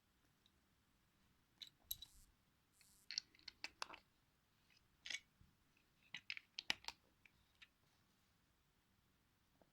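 Irregular light clicks and clatter of small Lego plastic parts, in a cluster between about two and eight seconds in, with no steady rhythm.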